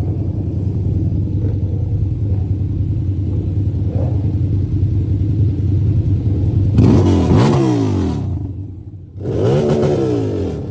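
Motorcycle engine running steadily, then two loud bursts of throttle about seven and nine seconds in, the engine note falling away after each.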